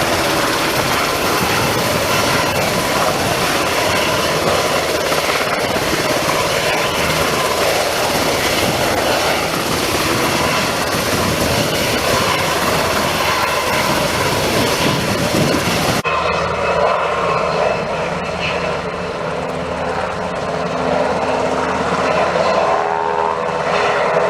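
Sikorsky S-70i Black Hawk helicopter running, with steady engine and rotor noise. About two-thirds of the way through the sound changes abruptly to a duller tone with less hiss.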